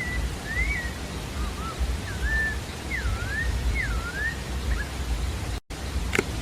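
Chalk-browed mockingbird singing a run of short whistled phrases, quick up-and-down slurs and swoops, over a steady low rumble. The audio drops out for an instant near the end, followed by a sharp click.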